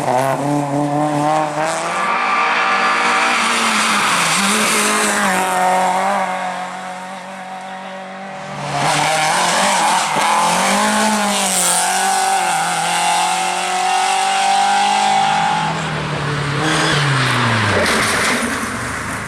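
Rally car at full attack on a special stage, its engine revving hard and changing pitch through gear changes, with tyres squealing and skidding. The engine drops away for a couple of seconds around the middle, then the pitch climbs steadily for a few seconds and falls near the end.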